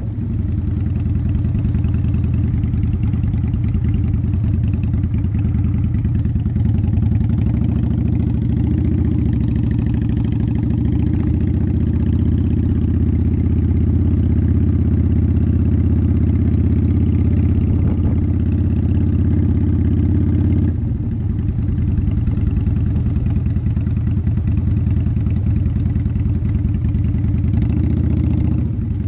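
Motorcycle engine running steadily while riding, a loud low drone with a constant pitch. The engine note eases off about two-thirds of the way through, and it shifts in pitch near the end.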